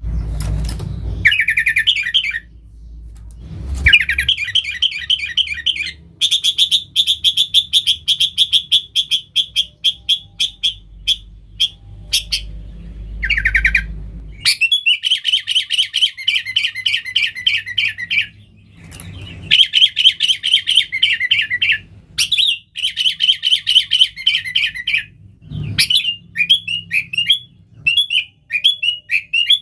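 Sooty-headed bulbul (kutilang) singing persistently: long runs of rapid, repeated chirping notes in bursts of several seconds, with short pauses between them. A low rumble sits underneath for the first half.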